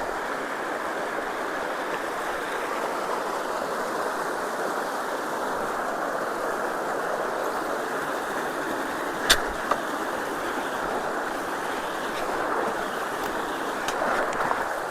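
Steady rush of flowing water at a culvert being unclogged of sticks, with a sharp knock about nine seconds in.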